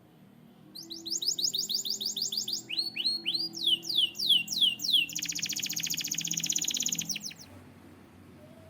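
Canary singing one song phrase: about a second in, a run of rapidly repeated downward-sweeping whistled notes, then a slower set of lower sweeps, then from about five seconds in a fast, even trill that stops about a second before the end.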